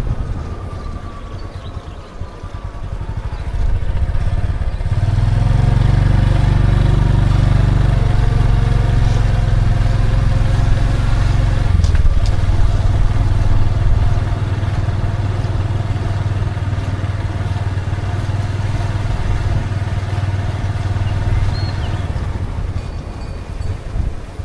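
A small engine running close by with a steady low hum. It grows louder about four seconds in, holds for about ten seconds, then drops back a little and keeps running.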